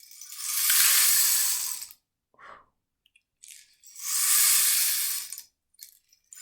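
Rain stick being turned over, each turn sending its filling trickling down the tube in a rush of about two seconds that sounds like falling rain. Two full rushes with a short gap between, and a third begins right at the end.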